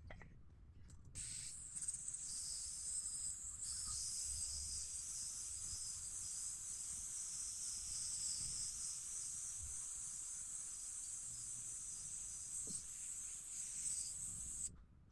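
A steady high-pitched hiss starts abruptly about a second in and cuts off abruptly near the end.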